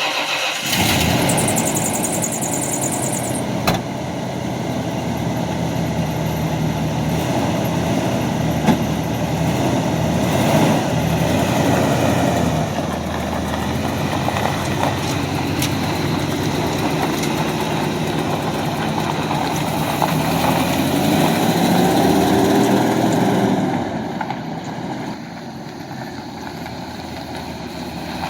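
1995 Ford F-350 pickup's engine idling just after starting. Later on its speed rises for a few seconds, then it drops back to a quieter idle.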